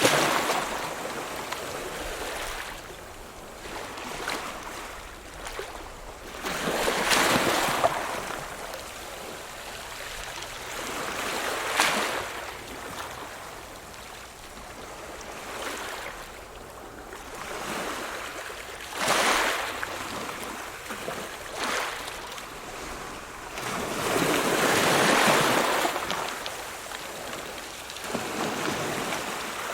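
Ocean waves breaking on a shore: five surges of surf, one every five to seven seconds, each washing back into a quieter hiss before the next.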